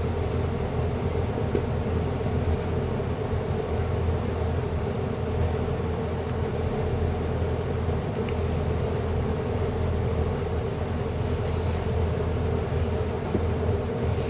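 A steady low mechanical rumble and hum that runs unchanged.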